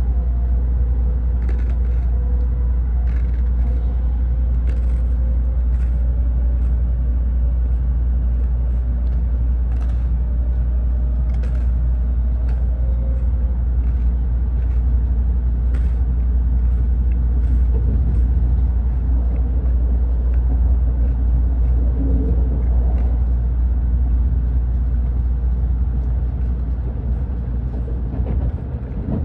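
Tokaido Shinkansen train running at speed, heard from inside the passenger cabin: a steady low rumble with scattered faint clicks and a faint whine through the first half.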